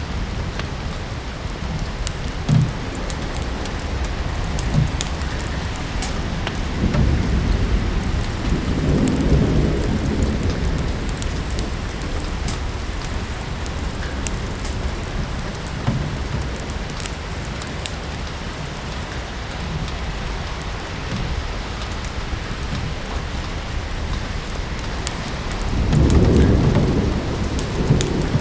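Steady rain with two low rolling rumbles of thunder, one about a quarter of the way in and a stronger one near the end, over a wood fire crackling in a fireplace with sharp little snaps.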